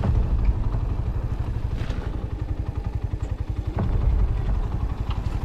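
Motorcycle engine running steadily at low speed over a rough rocky track, with the odd sharp knock and rattle from the bike.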